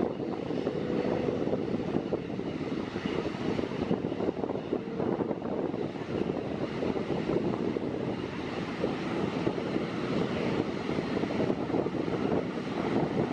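An ATR 72-500 turboprop airliner's twin Pratt & Whitney PW127 engines and propellers running, a steady drone on departure.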